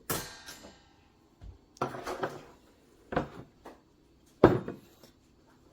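Kitchen things being handled and set down on a counter: a clink with a short ring at the start, then a few separate knocks and clatters, the sharpest near the end.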